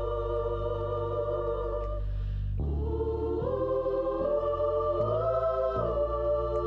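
Gospel organ and choir holding long sustained chords over a low bass, moving through several chord changes in the middle.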